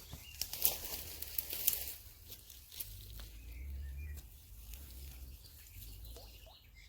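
Footsteps crunching on dry forest litter, a quick run of sharp crackles for the first two seconds, over a low rumble. A small bird starts chirping near the end.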